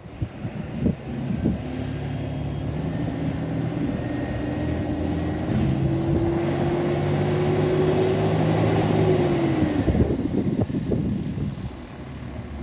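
A garbage truck's engine running and slowly rising in pitch for several seconds, as when it accelerates or revs, then dropping away about ten seconds in. Wind buffets the microphone before and after.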